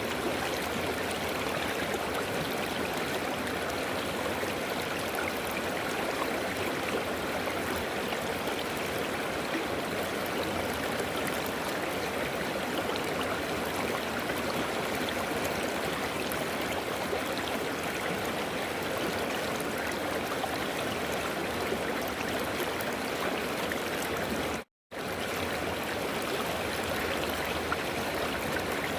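A river flowing with a steady, even rushing of water. The sound cuts out to silence for a split second about 25 seconds in, then carries on unchanged.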